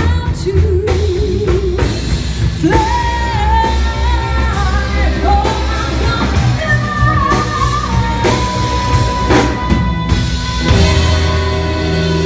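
Live blues band playing with singing and drum kit, a long held note near the end.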